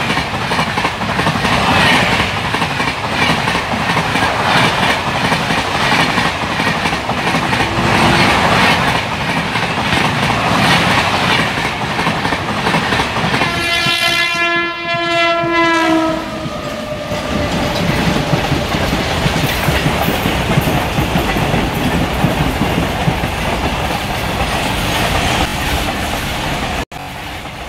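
Electric trains running past at speed: continuous wheel clatter and coach rumble on the rails, with one long train horn blast about midway that sags slightly in pitch as it ends.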